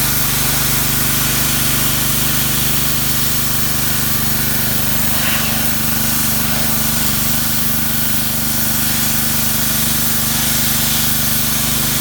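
Pressure washer running steadily, its motor humming under the constant hiss of the water spray as it cleans a car's paint.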